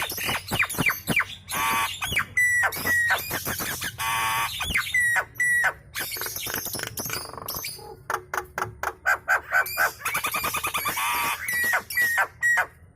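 Nias hill myna chattering non-stop: a rapid, varied run of harsh squawks, sharp falling whistles and clicks, which stops just before the end.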